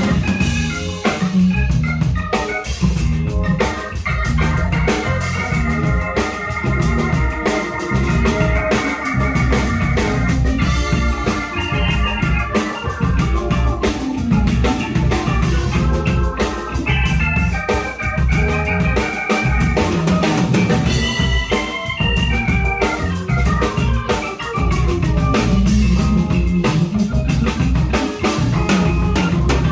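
Live soul-jazz band playing an instrumental, led by organ-toned keyboard chords and lines over drum kit and bass.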